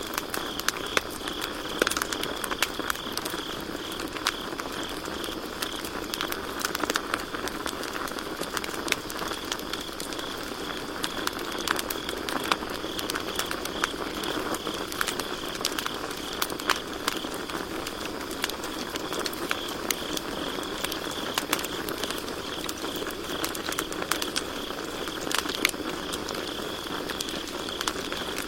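Campfire crackling, with frequent sharp pops and snaps of burning wood over a soft steady rush of the flames, while crickets chirp steadily in the background.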